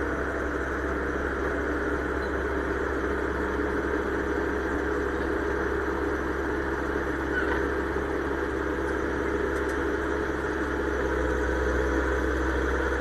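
Excavator's diesel engine running steadily, scooping laterite soil; the low engine note grows a little stronger about ten and a half seconds in.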